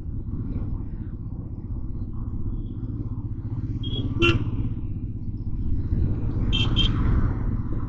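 Motorcycle engine running steadily while riding in city traffic, with vehicle horns honking: one short honk about four seconds in and two quick honks near seven seconds.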